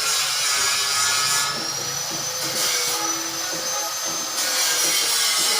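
A machine running steadily: a high-pitched whine over a dense hiss, with the whine shifting slightly in pitch about a second and a half in.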